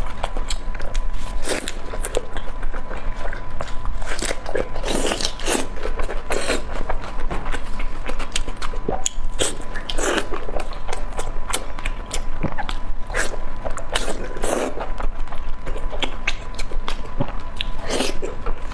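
Close-miked mukbang eating of Dongpo pork (braised pork belly): irregular wet biting, chewing and lip-smacking sounds with many small clicks.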